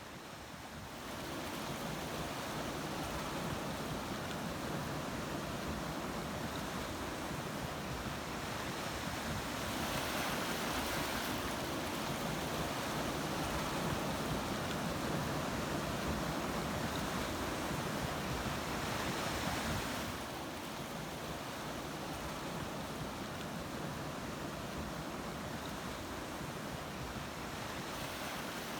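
Ocean surf: a continuous wash of breaking waves, growing louder for about ten seconds in the middle and then easing back.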